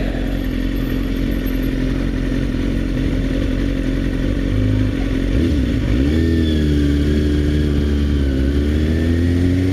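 Motorcycle engine running steadily at low speed. About five and a half seconds in the note dips briefly, then picks up and holds steady again at a slightly higher pitch.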